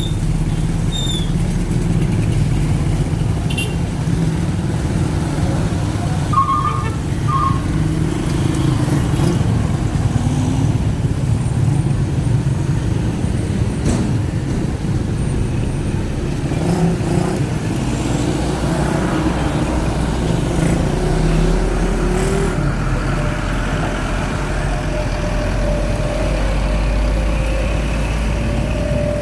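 Road traffic in a jam: engines of trucks and cars running steadily as they crawl past, with a few short high beeps about six seconds in.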